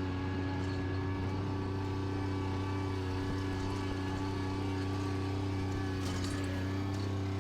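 Bobcat tractor engine running steadily at an even speed, with no change in pitch.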